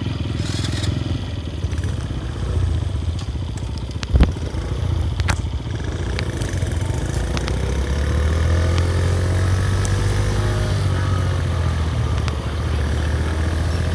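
Small motorcycle engine running while riding, with road and wind noise, and one sharp knock about four seconds in.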